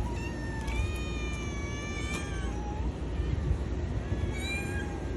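Kitten meowing in high-pitched calls: a long, drawn-out meow of about two seconds starting just under a second in, and a shorter meow near the end, over a steady low rumble.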